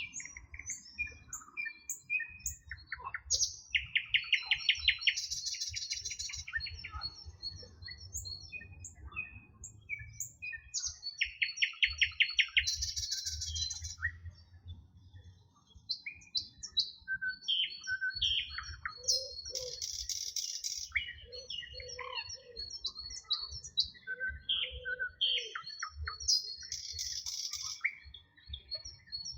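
Several songbirds singing together, a chorus of short chirps and whistles. A rapid trill comes twice, about 4 and 12 seconds in, and a buzzy high phrase repeats every seven or eight seconds, with a low rumble underneath throughout.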